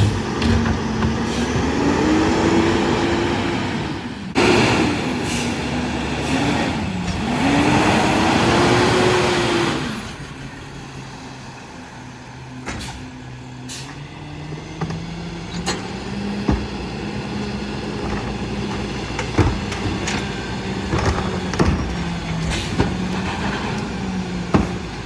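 Freightliner M2 McNeilus rear-loader garbage truck: its diesel engine revs up and drops back twice over a loud rushing noise, then settles to a quieter steady idle with scattered clanks and knocks about halfway through.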